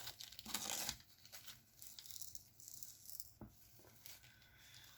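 Small plastic diamond-painting drills rattling in their tray, with a brief louder burst of rattling about half a second in and scattered small ticks after.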